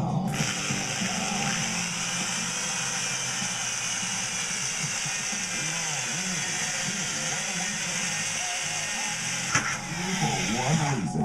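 A steady motor whine with a hissing high end, its pitch drifting slightly, over background music.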